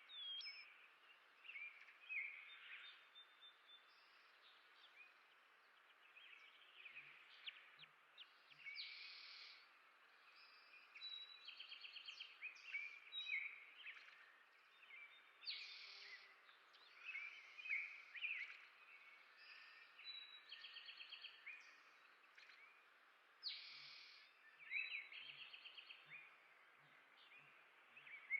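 Small songbirds chirping and calling throughout, several at once, with a few quick trills of rapidly repeated notes, over a faint outdoor hiss.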